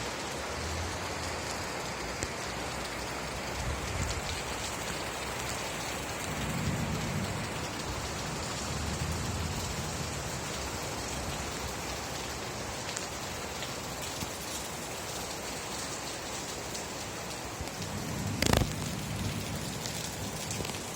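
Steady rain falling on surfaces, an even hiss of drops. A few soft low rumbles come and go, and near the end a single sharp crack stands out as the loudest sound.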